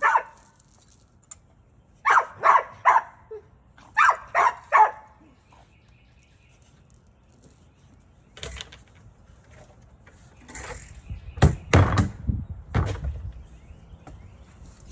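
A dog barking in two quick runs of three barks, followed several seconds later by a run of clattering knocks and scrapes.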